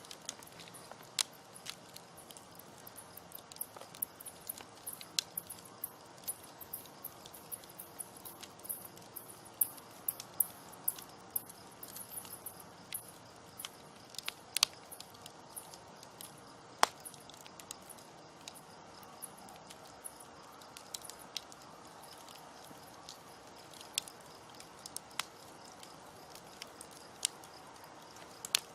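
Wood campfire crackling: irregular sharp pops and snaps, some much louder than others, over a soft steady hiss of burning.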